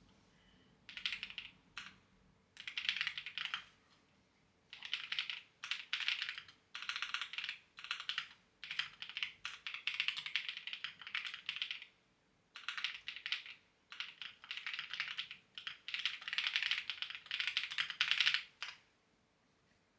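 Typing on a clacky computer keyboard: bursts of rapid key clicks a second or two long, separated by brief pauses, stopping about a second before the end.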